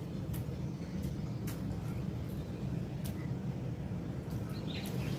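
Steady low outdoor rumble with a few sharp ticks scattered through it; a bird chirps a few times near the end.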